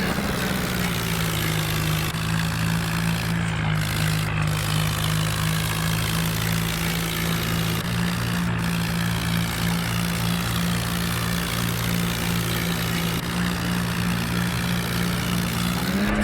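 Swaraj 4x4 tractor's diesel engine running steadily at a constant speed, its pitch rising briefly at the very end.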